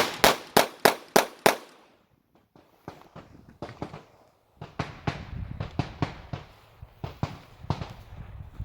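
Glock 45 9mm pistol fired rapidly: a quick string of sharp shots over about the first second and a half, answering a shot-timer start. Quieter clicks and handling noises follow.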